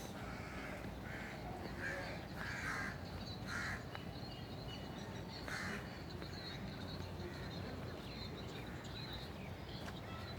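Crows cawing, about six short calls in the first six seconds, over a steady low background noise.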